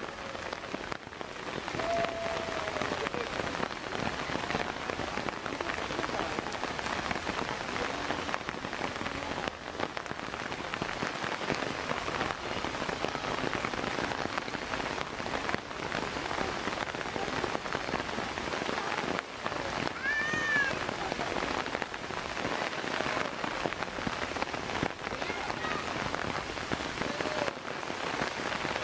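Steady rain falling and pattering on the ground. A couple of brief calls stand out faintly over it: one about two seconds in, and a higher, arched one about two-thirds of the way through.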